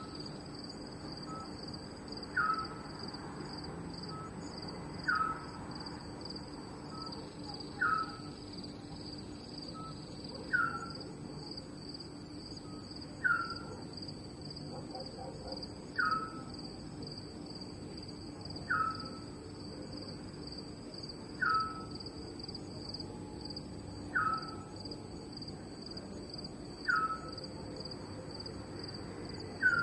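Night ambience of crickets trilling steadily in a pulsing chorus, with a short falling call repeated about every two and a half to three seconds, each call preceded by a faint brief note.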